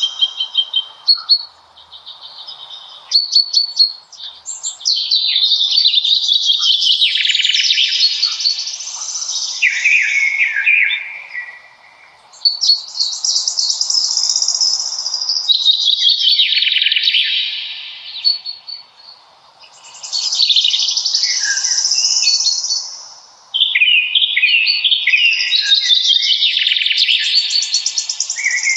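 Songbirds singing: long, rapid, trilling and warbling phrases of several seconds each, separated by short pauses of a second or two.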